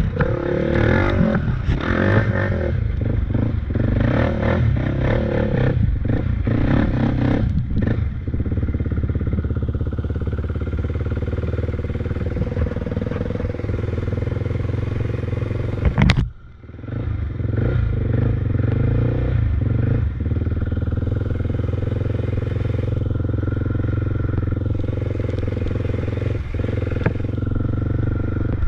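Off-road motorcycle engine running steadily while riding, with rough clattering over the first several seconds. About sixteen seconds in there is a sharp click and the sound dips briefly before the engine carries on steadily.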